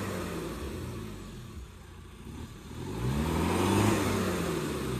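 Off-road SUV engine revving under load while stuck in deep mud. The revs sag to a low about a second and a half in, then climb and fall again from about three seconds in as it tries to pull free.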